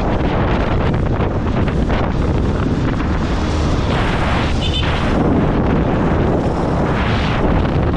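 Heavy wind buffeting on a motorcycle rider's microphone at road speed, over a steady rush of engine and road noise. The noise swells briefly about four seconds in and again near seven seconds.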